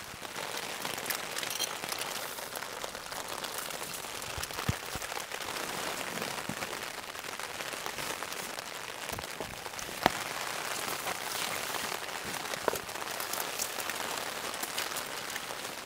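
Steady rain pattering on a tent flysheet, with a couple of sharp clicks, the loudest about ten seconds in.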